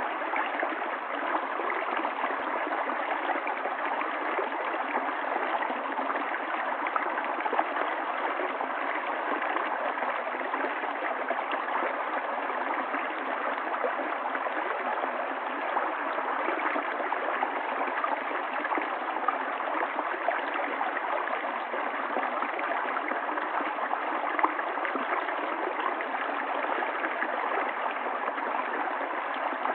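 Stream water running over rocks: a steady, even rush of flowing water that does not change.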